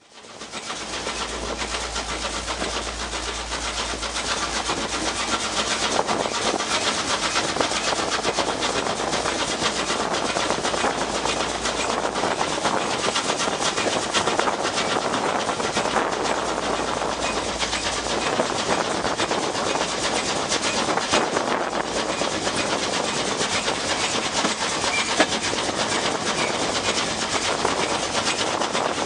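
Steam-hauled train in motion, heard from the brake van coupled behind Peckett tank locomotive No. 1438: a steady, dense rattling clatter of wheels, couplings and bodywork over the track. It comes up from silence in the first second, with a low rumble under it for the first two-thirds.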